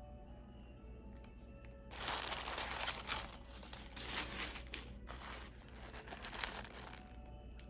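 Packing material crinkling and rustling, starting about two seconds in and lasting about five seconds, over soft background music.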